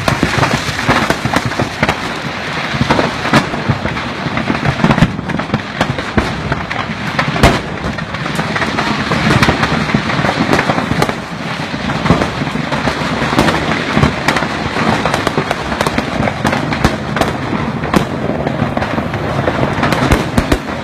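Stock of firecrackers burning in a van and going off nonstop: a dense crackle of rapid pops with sharper bangs scattered through it, the loudest about seven seconds in.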